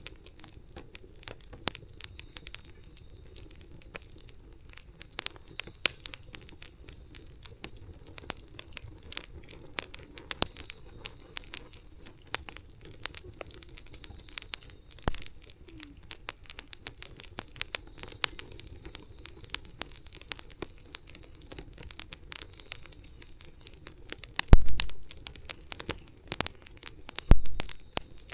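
Wood campfire crackling with irregular sharp pops and snaps. Near the end come two louder low thumps, a few seconds apart.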